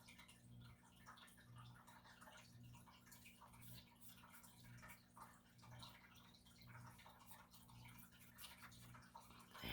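Near silence: room tone with a faint low hum that swells about once a second.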